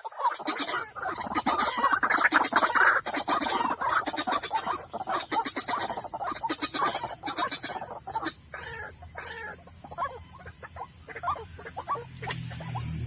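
White-breasted waterhen calls: a dense run of harsh, rapidly repeated notes that thins to sparser calls after about eight seconds.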